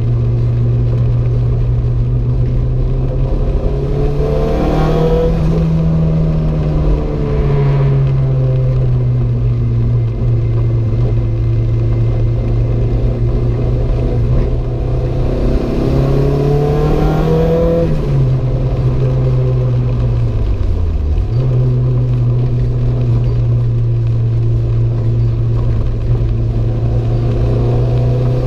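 Renault 5 GT Turbo's turbocharged four-cylinder engine pulling steadily under load, with tyre and road noise underneath. The engine note rises twice and dips sharply about two-thirds of the way through.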